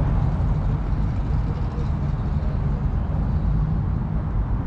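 A car running: a steady low engine and road rumble with no sharp events.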